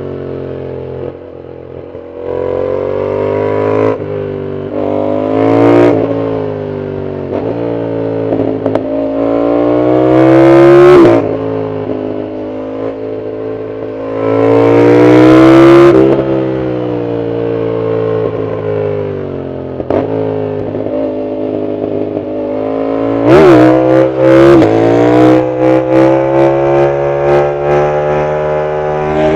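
Yamaha MT-07's parallel-twin engine through a full exhaust, pulling hard up through the gears: the pitch climbs and drops back at each upshift, three times in a row. About two-thirds of the way in comes a string of sharp exhaust cracks, then the engine climbs steadily again.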